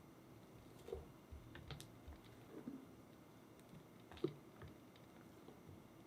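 Faint, scattered small taps and clicks of kitchen utensils against a quiet background, the sharpest one a little past four seconds in.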